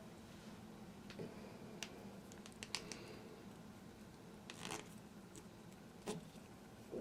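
A few light clicks and taps from small toilet tank hardware (bolts, washers and gaskets) being handled during reassembly.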